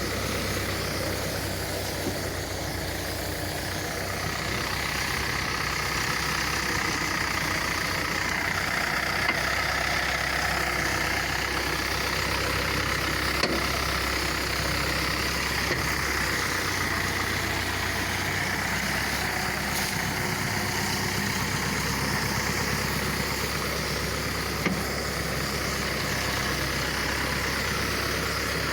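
Kubota engine running steadily, driving a high-pressure sprayer pump during herbicide spraying.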